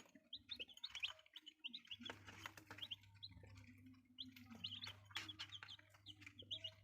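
Chicks peeping: many short, high cheeps in quick succession, faint, over a low steady hum that starts about two seconds in.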